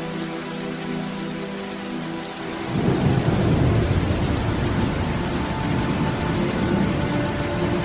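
Steady rain falling, with a deep roll of thunder breaking in about a third of the way through and rumbling on, louder than the rain.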